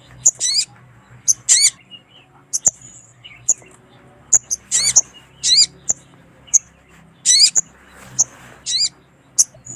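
Sogon sunbird calling: sharp, very high chirps and quick zig-zag trilled notes repeated every half second to a second, over a faint steady low hum. It is a lure recording of a female sogon calling males.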